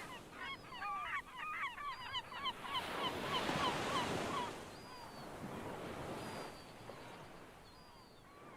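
A flock of birds calling: many short, hooked calls in quick succession for about four seconds, then stopping. Underneath, a steady wash of noise swells and fades.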